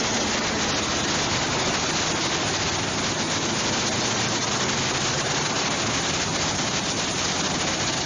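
Diesel-powered horizontal wood grinder running under load, a loud, steady, dense rushing noise of the engine and grinding mill with no change in pace.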